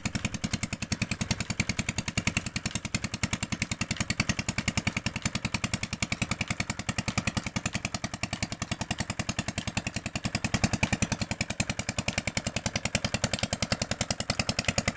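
Chinese R180 single-cylinder diesel engine running at a steady speed, with a rapid, even chug of firing beats, driving a tube-well water pump.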